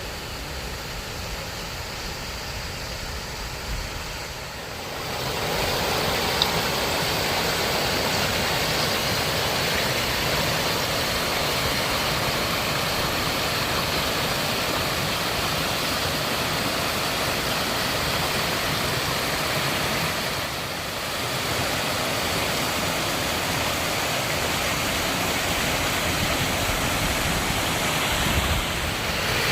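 Rain-swollen mountain stream rushing over its rocky bed, a steady wash of water noise that gets louder about five seconds in.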